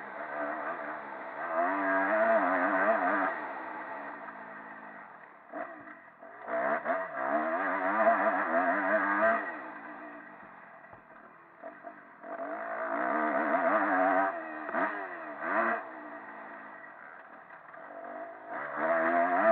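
Motocross bike engine revving hard in four bursts of about three seconds, the throttle shut off between them, as the bike rides a lap of a motocross track.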